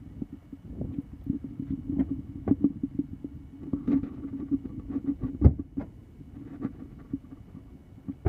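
Ford Taurus SHO's twin-turbo 3.5 L EcoBoost V6 running with a steady low hum, over short clicks and knocks and one dull thump about five and a half seconds in.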